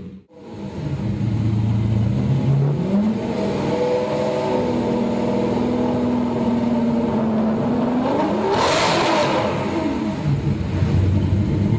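Lamborghini Murcielago's V12 through a Fabspeed Maxflo exhaust with sport cats, cat-bypass pipes and muffler bypass, being revved while standing: engine speed climbs and is held a few seconds, then a sharp blip to high revs about nine seconds in drops back to idle, and the revs rise again near the end.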